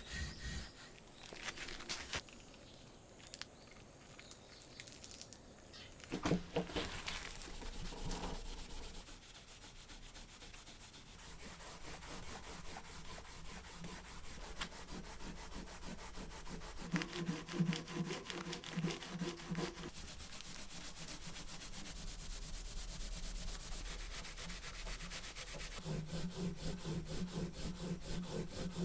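Dry rubbing and scraping of hand work on wood, in bouts of a few seconds made of many fast, fine strokes.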